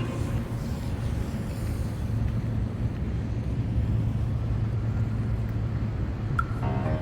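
Street traffic, a steady low rumble of passing vehicles. Music comes back in near the end.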